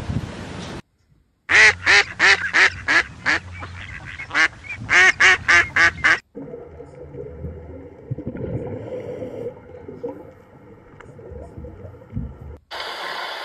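Egyptian goose calling: a rapid series of about a dozen loud honks over some four seconds, followed by a quieter steady background sound.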